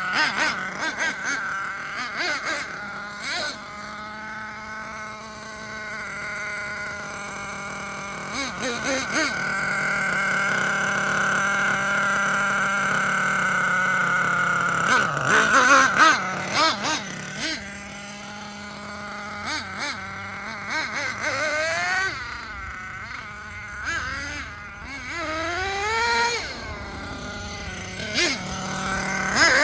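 Nitro RC monster truck's Force R36 5.9 cc two-stroke glow engine running as the truck is driven. Its pitch rises and falls with the throttle, holds a long steady high-revving stretch in the middle, and gives several quick rising revs near the end.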